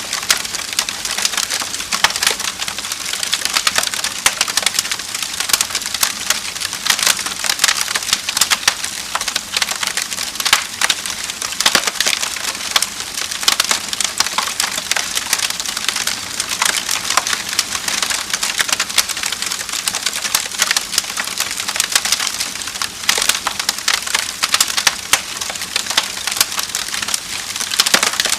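Wood fire crackling and popping steadily, dense sharp snaps over a soft hiss.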